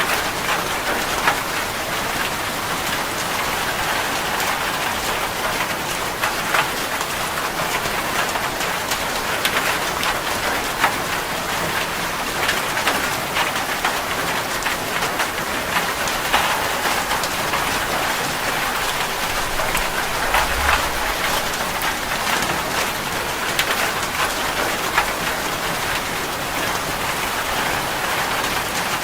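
Steady rain falling, a dense patter of drops with an occasional louder drop ticking sharply on a nearby surface.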